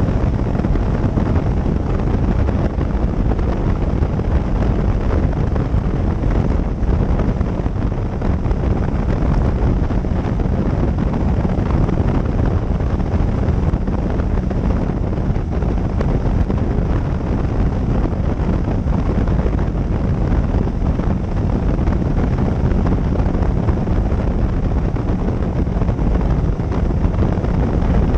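Steady wind rush on the microphone of a moving motorcycle, with the engine's steady hum underneath.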